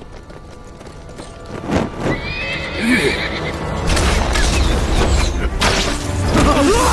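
A troop of horses approaching at a gallop, the hoofbeats building into a dense rumble from about four seconds in. One horse neighs about two seconds in, and more calls rise over the hooves near the end, all under dramatic score music.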